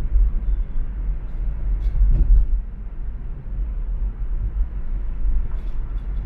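Steady low rumble of road and traffic noise heard from a moving car on an expressway. It swells briefly about two seconds in.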